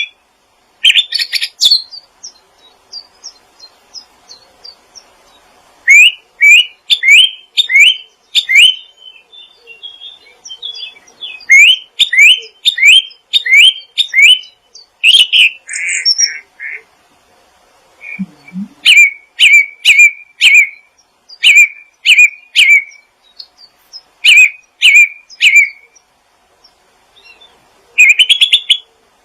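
A songbird singing loud, sharp whistled chirps in quick phrases of several notes a second, separated by short pauses.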